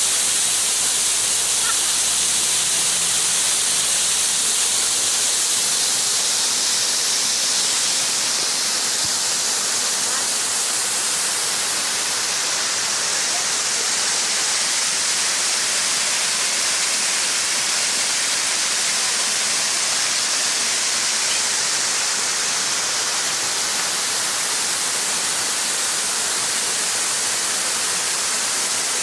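Steady rush of falling water from the Bigăr waterfall, an even hiss and splash that stays constant throughout.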